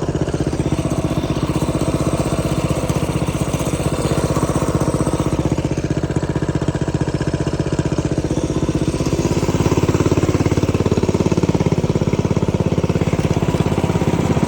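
Mini bike's small engine running steadily under way, its note picking up and getting a little louder about two-thirds of the way through.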